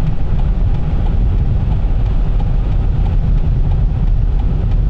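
Dodge Charger driving along a snowy highway: a steady low rumble of road and engine noise.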